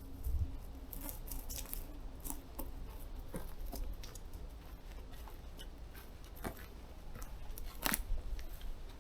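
Camera shutter clicking in single, irregular shots, about a dozen sharp clicks, with a low rumble underneath.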